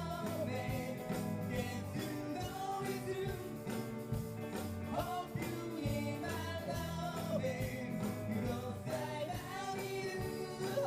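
Live rock band playing a song with a lead singer, over a steady drum beat.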